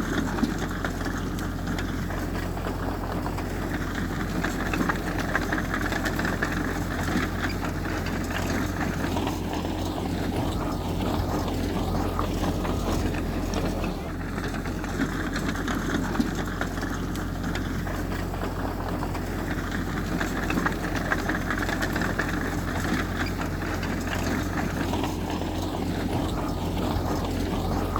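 Heavy earthmoving machine's diesel engine running steadily, a constant low hum with no changes in pace.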